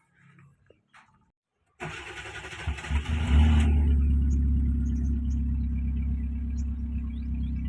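Kia Picanto engine cranked by its starter motor about two seconds in, catching after a second or so of cranking and then running at a steady idle.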